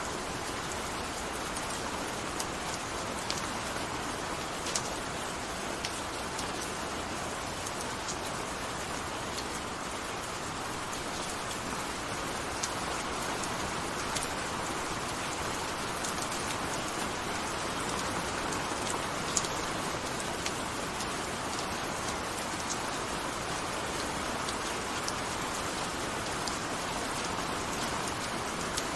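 Steady gentle rain falling, an even hiss with scattered sharp drop impacts that tick out above it.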